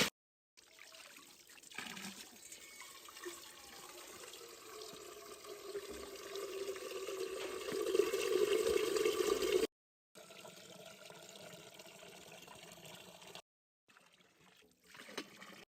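Water pouring into a container, the tone of the filling vessel rising and growing louder over several seconds, then stopping abruptly. It is followed by a steadier trickle of water.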